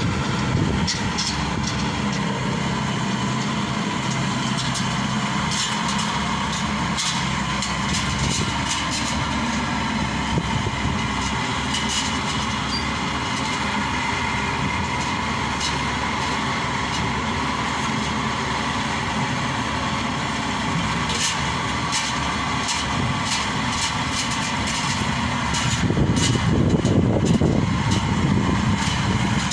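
Maxxi Bimo Xtreme combine harvester's diesel engine running steadily, with scattered metallic clicks and knocks. It grows louder for a few seconds near the end.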